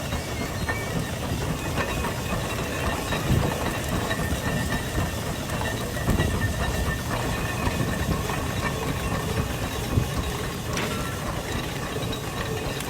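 Steam traction engine working, with a steady hiss of steam and irregular knocks from the running engine.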